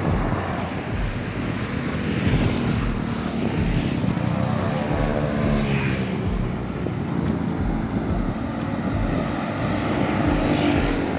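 Aircraft engines droning as a plane passes near the runway, the pitch of the drone sliding about midway through, over a steady wind rumble on the microphone.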